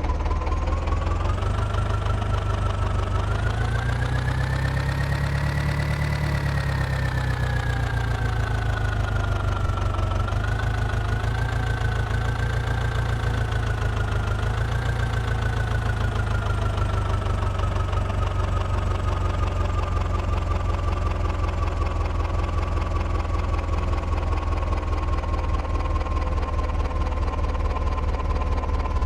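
New Holland 4710 tractor's diesel engine pulling a fully loaded trolley. Its pitch rises to a peak about six seconds in, falls back and wavers, then eases slowly down and holds steady.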